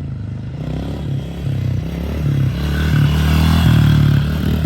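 110cc pit bike engine revving hard, getting louder from about two seconds in.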